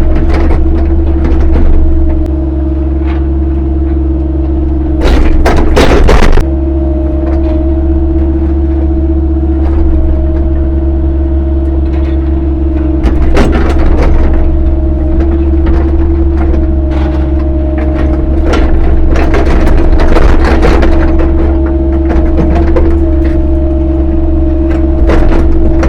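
CAT 308 mini excavator running under load, a steady engine rumble with a constant whine on top, broken by scattered knocks and scrapes as the machine works rocky soil; the heaviest clatter comes around five to six seconds in.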